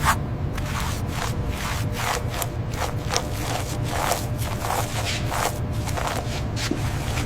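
Repeated scraping strokes, about two a second and evenly paced, over a steady low rumble.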